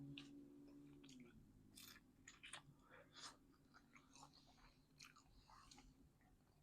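Faint close-up chewing of a baked calzone, with soft irregular mouth clicks and smacks.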